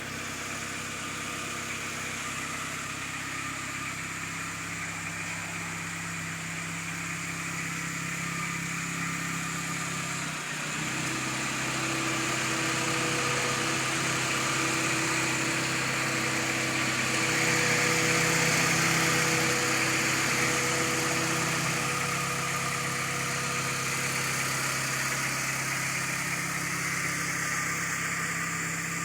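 Honda Accord engine idling steadily, its note shifting slightly about ten seconds in. Through it runs the intermittent slight rattle, a medium-high-pitched tick near the gearbox that varies with rpm, which the owner wonders could be rod bearings or a loose flywheel.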